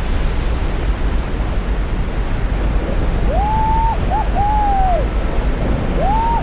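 Steady rush of water and wind, like a glacial waterfall pouring into the sea. About halfway through, four short whistle-like tones rise, hold and fall one after another.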